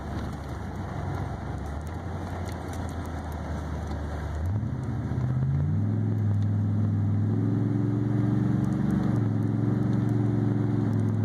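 Vehicle engine heard from inside the cab, running steadily under a constant noisy rumble of tyres on the road. About four and a half seconds in it climbs in pitch and gets louder as the vehicle accelerates, then holds at the higher revs.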